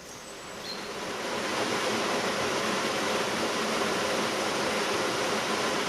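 Steady rushing noise of running water, fading up over the first couple of seconds and then holding even.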